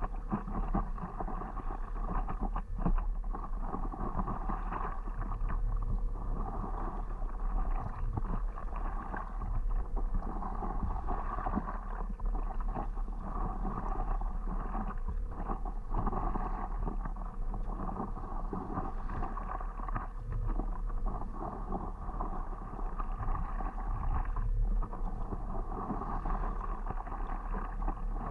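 Water splashing and lapping around a stand-up paddleboard as it is paddled, with many small irregular splashes, over a steady rush of wind on the microphone.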